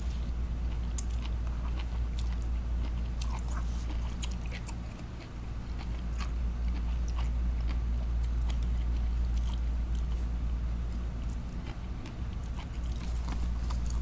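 A person chewing a mouthful of jellyfish close to the microphone, with scattered small crunchy clicks, over a steady low hum.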